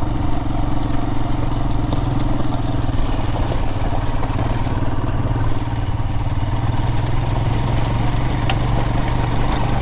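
Adventure motorcycle engine running at a steady, even pace while riding over a loose gravel road.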